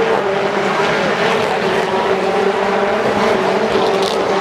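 Touring car engines running at speed, a steady, level engine note.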